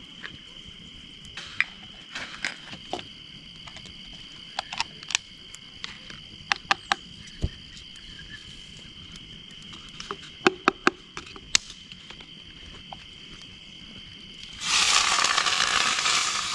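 Wood campfire crackling with scattered sharp pops over a steady, high drone of crickets. Near the end a pan starts sizzling loudly and suddenly, as food or liquid hits hot oil.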